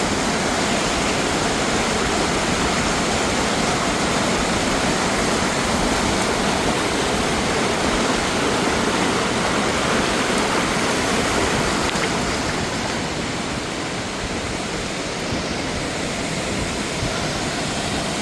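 Steady rush of fast-flowing mountain water, dipping slightly in level about two-thirds of the way through.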